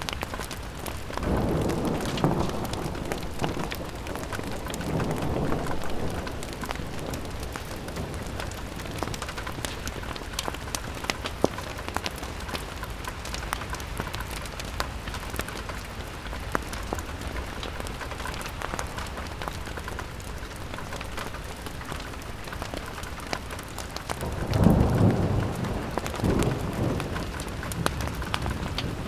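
Steady rain on window glass, a constant hiss dotted with sharp drop ticks. A low rumble swells up about a second in, again softly around five seconds, and loudest near the end.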